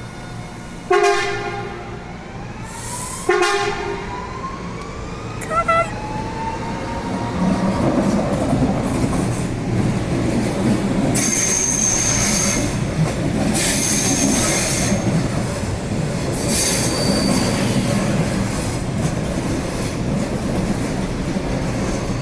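Electric commuter train sounding two short horn blasts and a brief toot, with a rising motor whine as it gets moving. It then runs past with steady wheel rumble and clatter, broken by high wheel squeal three times.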